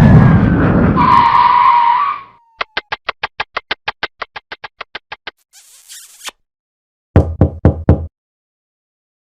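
A string of short sound effects. First a loud noisy burst with a steady beep-like tone, which ends just after two seconds. Then a run of rapid, evenly spaced clicks, about six a second, fading over nearly three seconds. Near the end come four quick, loud knocks.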